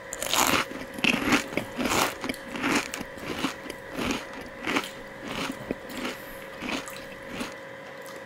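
A man biting into a deep-fried Indian sweet, then chewing it with a steady rhythm of about three chews every two seconds, petering out near the end.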